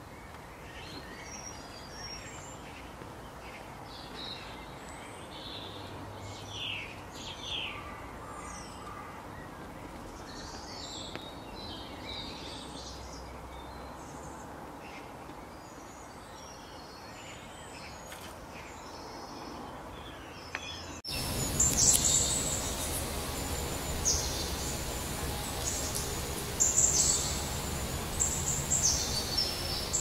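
Wild birds chirping and singing in short, varied calls over a steady background hiss. About two-thirds of the way through, the sound cuts abruptly to a louder stretch with busier, higher chirping.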